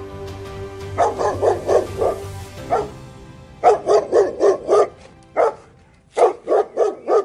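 A dog barking in quick runs of about five barks, three runs in all, with a single bark after each of the first two. Background music fades out around the first bark, and the barking cuts off suddenly at the end.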